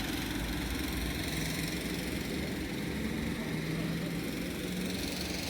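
Steady low engine-like rumble, as of an idling motor or traffic, with no clear change throughout.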